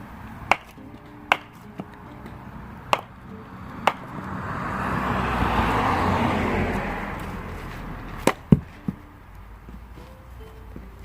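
Axe striking firewood: a run of sharp knocks, about five in the first four seconds and then two close together near the end. In the middle a broad rush of noise swells up and fades away over about four seconds.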